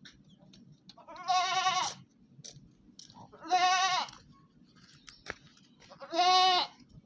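An animal calling three times, each a quavering, bleat-like cry just under a second long, with a couple of seconds between cries.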